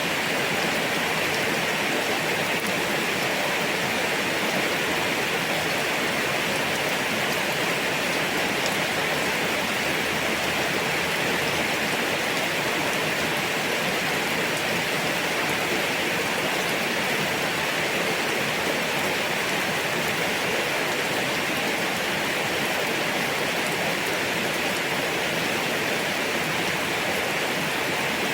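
Steady heavy rain falling at night, an even downpour hiss with fine pattering drops.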